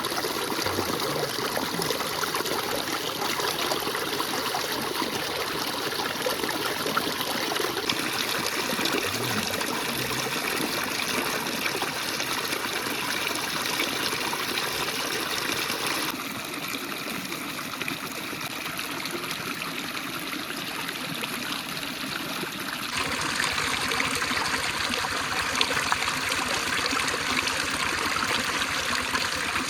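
River water flowing in a steady rush, its level and tone changing abruptly three times.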